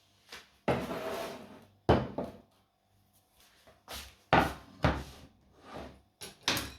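Handling noises: a series of about ten short knocks and bumps, with a longer rustle about a second in.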